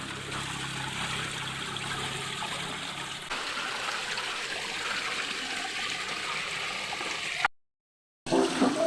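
Steady rush of running water, like a stream, with a slight change in the sound about three seconds in; it cuts off shortly before the end.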